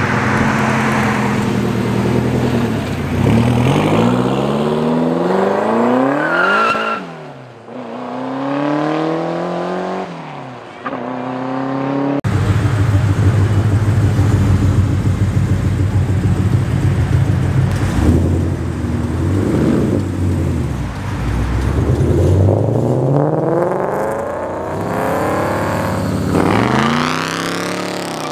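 A Lotus Esprit's engine revving up and down as the car pulls away. Then a Ford Mustang GT's 5.0 V8 runs with a steady low rumble before being revved several times, the pitch rising and falling.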